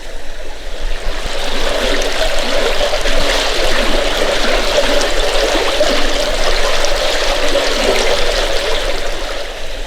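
Running water of a small stream, a steady rush and trickle that swells about a second in and holds.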